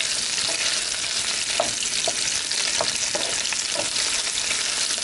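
Mutton koftas shallow-frying in a few tablespoons of hot oil in a pan: a steady sizzle with a few short ticks through it.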